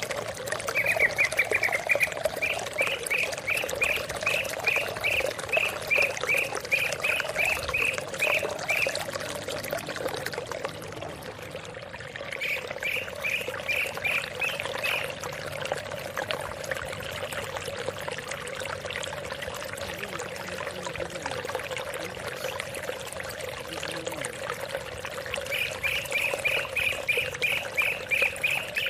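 Greater green leafbird (cucak ijo) calling in quick runs of repeated rising chips, about two a second, in three bursts: a long one at the start, a short one midway and another at the end. Steady running water flows beneath.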